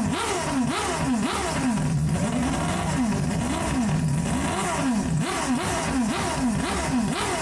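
Racing-style engine revving up and down over and over, the pitch rising and falling about once or twice a second.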